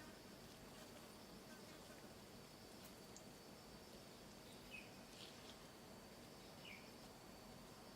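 Faint jungle ambience: insects droning steadily at one high pitch, with two short bird-like chirps about five seconds in and again near seven.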